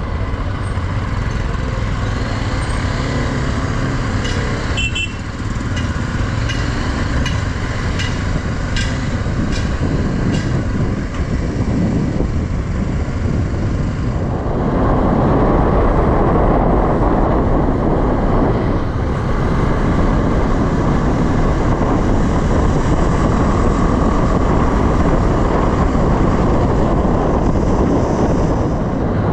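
Motorcycle running on the road, with engine and wind noise at the bike. A run of light ticks, about two a second, comes early on, and the rush grows louder about halfway through.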